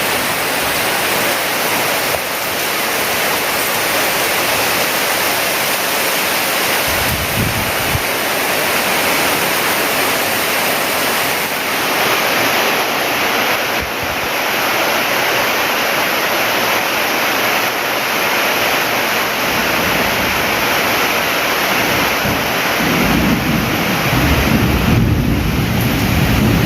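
Heavy rain pouring down in a steady, dense hiss, driven by strong wind. A low rumble comes in briefly about seven seconds in and again for the last few seconds.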